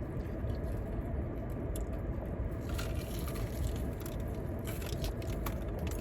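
Close-up eating sounds: a jam-topped biscuit being bitten and chewed, with small wet clicks and crackles coming thick from about halfway in, over a steady low hum.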